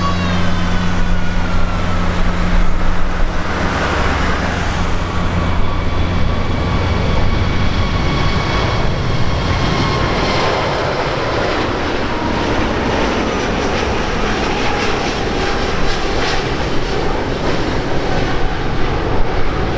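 Airbus A380's four jet engines passing, a steady loud rush with whining tones that slowly fall in pitch. A low steady hum fades out in the first few seconds.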